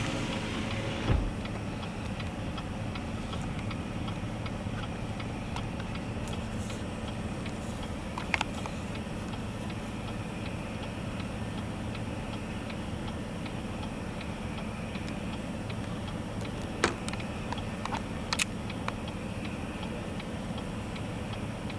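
Steady low hum of a parked car with its engine running, heard from inside the cabin, with a few faint clicks now and then.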